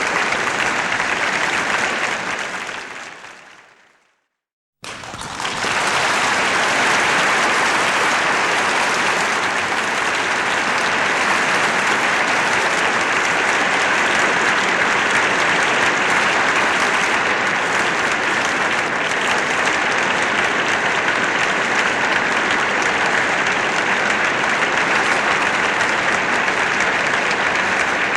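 Audience applause that fades out about four seconds in, then after a short silence a second applause recording fades in and carries on steadily.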